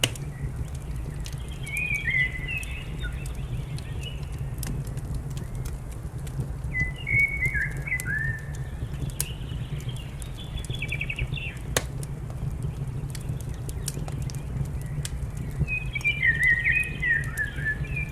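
A songbird sings three short warbling phrases, about a second in, around the middle, and near the end, over a steady low rumble and scattered sharp crackles of a wood fire.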